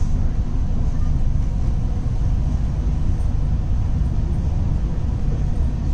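Steady low rumble of a double-decker express train running at speed, heard from inside the coach through its closed windows.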